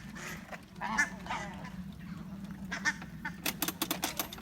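Ducks quacking, several short calls, with a quick run of sharp clicks near the end.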